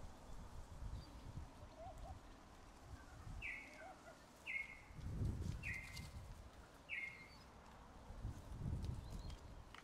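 A bird calling four times, about once a second: short, falling, high notes. Two spells of low rumbling noise are the loudest sounds, one near the middle and one near the end.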